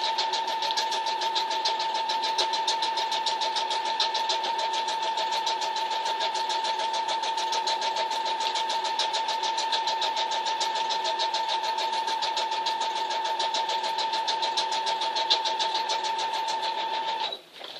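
Electric sewing machine running at a steady speed, stitching a seam along the side of a woven dog food bag: an even motor hum with a rapid needle rhythm. It stops near the end.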